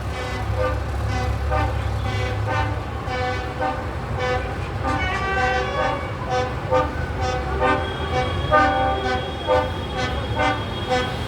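Tractor engines rumbling past, with repeated short horn toots over them.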